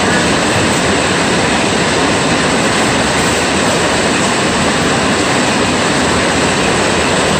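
Heavy rain pouring down in a steady, loud, even hiss.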